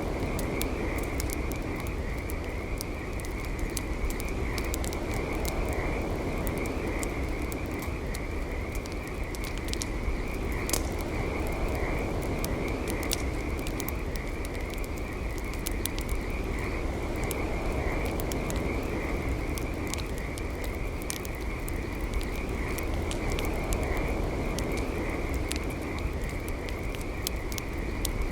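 Campfire crackling, with frequent sharp pops, over a steady chorus of frogs trilling.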